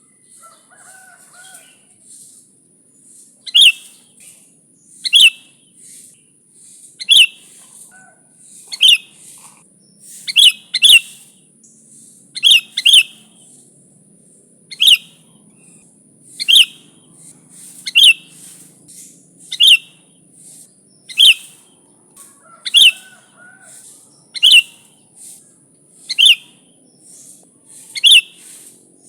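Sooty-headed bulbul (kutilang) calling over and over, a short sharp falling note about every one and a half to two seconds, sometimes given twice in quick succession. A steady high hiss runs underneath.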